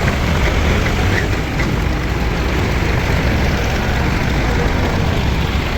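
A heavy engine running steadily at a constant speed, with a deep, even low rumble.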